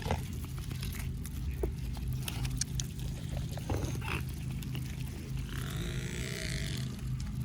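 Mute swans calling close by, with a few short calls and some rustling over a steady low hum.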